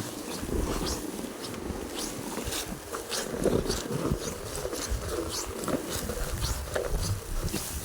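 Snow crunching and crackling in irregular crisp strokes a few times a second, with soft low thuds underneath.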